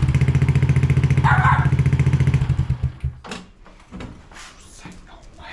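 Honda Dax 125's single-cylinder engine idling through a Yoshimura Straight Cyclone exhaust with an even, steady beat. It is then switched off and dies away about three seconds in. A few light knocks and clicks follow, and a brief higher-pitched sound is heard over the idle about a second and a half in.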